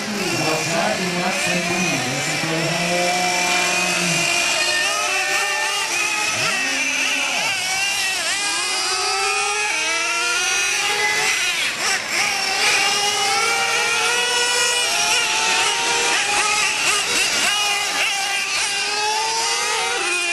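Several nitro RC monster trucks' small two-stroke glow-fuel engines running together, their high-pitched whines rising and falling as the trucks accelerate and lift off, overlapping.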